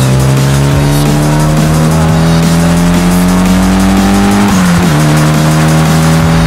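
Mitsubishi Lancer Evolution VI's turbocharged four-cylinder engine, through a Japspeed exhaust, rising slowly in pitch under acceleration, then dropping at a gear change about four and a half seconds in and holding steady. Music plays over it.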